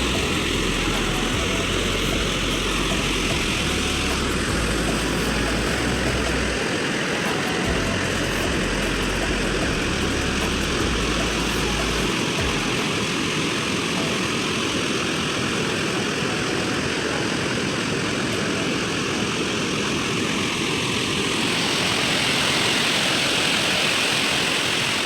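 Waterfall and river water rushing in a steady, loud roar of even noise, with a low rumble underneath that stops about halfway through.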